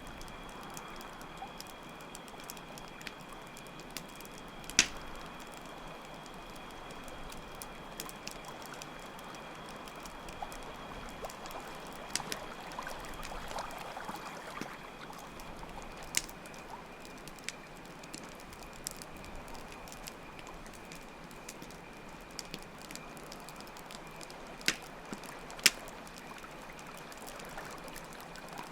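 Water trickling steadily under a crackling campfire, with a few sharp pops from the fire, and a faint steady trill of crickets that partly drops away a little past halfway.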